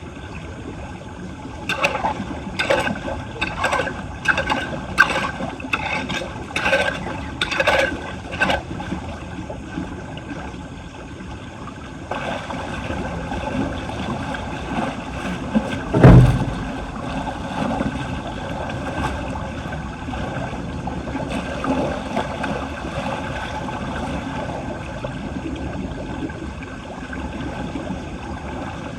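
Floodwater running steadily into a street drain. Between about two and eight seconds in come nine sharp knocks with a short ring, roughly one a second, and about halfway through there is one heavy low thump, the loudest sound.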